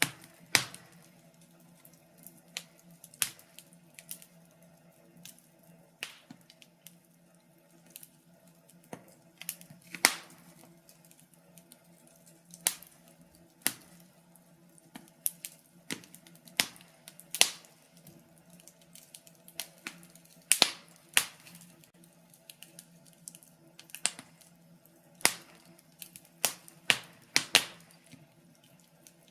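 Wood fire crackling: irregular sharp pops and snaps, sometimes in quick clusters, over a faint steady low hum.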